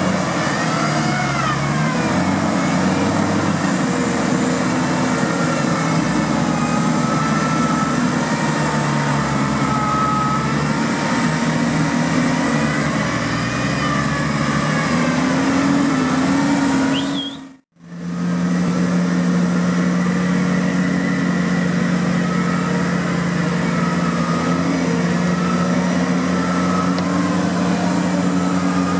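Off-road vehicle engine running hard, its pitch rising and falling as the throttle is worked. The sound cuts out completely for a moment about two-thirds of the way through.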